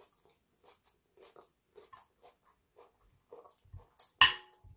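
A person chewing a mouthful of salad greens close to the microphone, with soft wet crackly mouth noises every fraction of a second. Near the end a knife and fork knock sharply against a ceramic plate with a brief clink.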